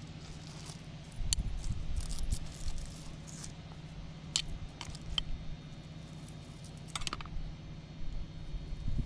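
Weeds and brush being pulled and handled by hand: scattered crackles, snaps and scrapes of stems and leaves, with a denser bout of rustling about a second in, over a steady low hum.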